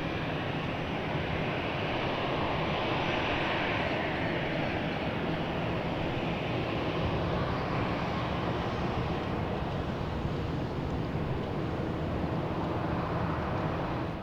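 Jet airliner's engines running as it passes the airfield: a steady, dense rush with a slowly shifting, swooshing tone.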